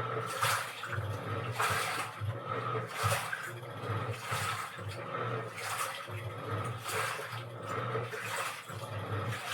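Washing machine running a wash cycle: the drum turning with water sloshing in repeated surges, and the motor humming in short on-off pulses.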